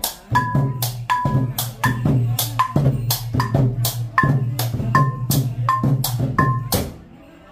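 Chhay-yam percussion music: drums beaten in a fast even rhythm with a ringing metal strike about once a second. It stops about seven seconds in.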